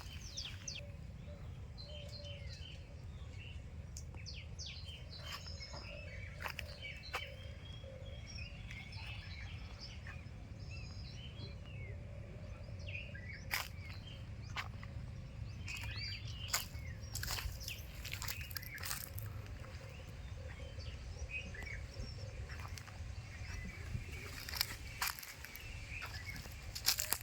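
Birds chirping: many short, scattered calls over a steady low rumble, with a few sharp clicks.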